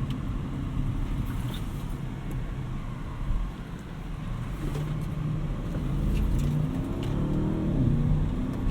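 Audi RS6 Avant's twin-turbo V8 heard from inside the cabin while driving, running low and steady, then rising in pitch as it accelerates over the last couple of seconds.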